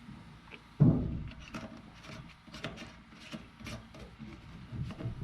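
Handling noise: a heavy thump about a second in, then irregular lighter knocks and rubbing.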